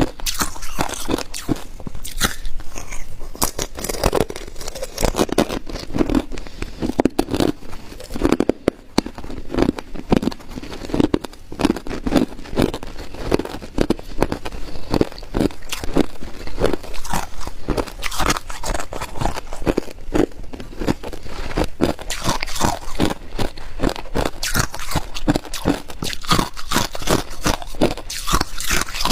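Ice being bitten and chewed close to the microphone: dense, irregular crunching and cracking of hard ice between the teeth.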